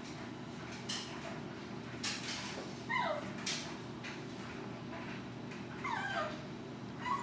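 Six-week-old puppies whimpering while they play: two high whines that slide down in pitch, one about three seconds in and one about six seconds in, with light scuffling in between.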